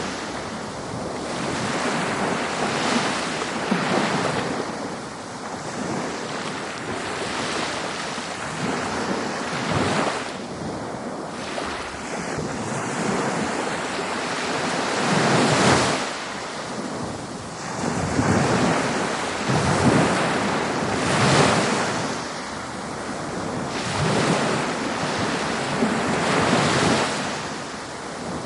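Ocean surf washing onto a beach: a steady rush of water that swells and falls every few seconds as waves break.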